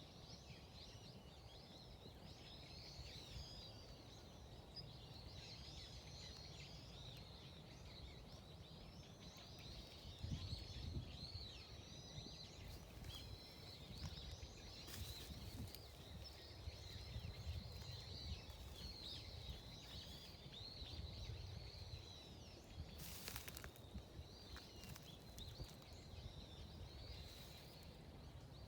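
Many small birds chirping continuously in a dense, overlapping chorus, faint over a low wind rumble. A brief rustling burst stands out about 23 seconds in.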